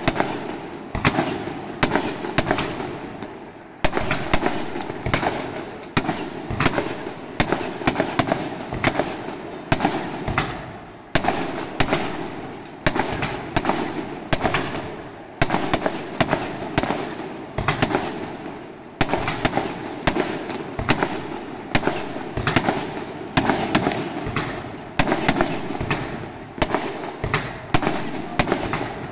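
Aerial fireworks display: shells bursting one after another, several bangs a second, with many smaller pops between and a few bigger bursts standing out.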